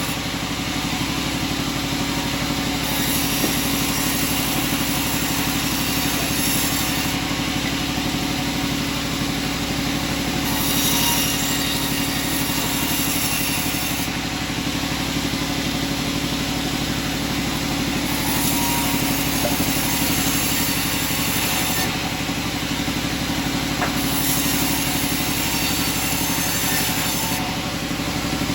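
Sawmill machinery running: a steady engine-like hum at one pitch, with a higher hiss that comes and goes every few seconds.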